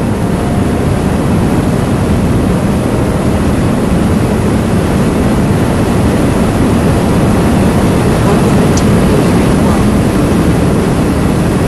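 Subaru BRZ (ZD8) 2.4-litre flat-four engine pulling hard at full throttle, heard from inside the cabin and mixed with heavy wind and road noise as the car accelerates toward 200 km/h; the sound is steady and grows slightly louder.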